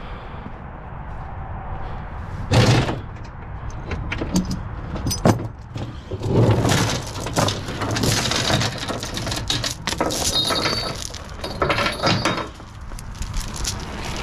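Loud knocks and bangs, followed by a long stretch of crunching, rattling noise full of clicks from about six seconds in to near the end.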